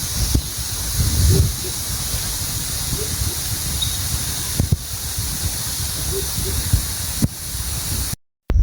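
Steady high-pitched hiss of rainforest insects, over a low rumble and a few soft thuds of footsteps as a hiker walks along the trail. The sound cuts out abruptly near the end.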